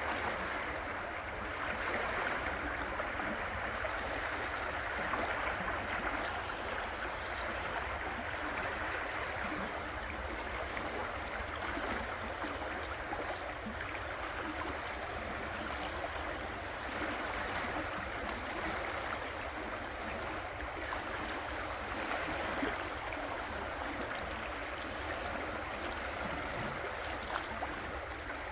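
River water rushing and gurgling over rocks in a steady flow.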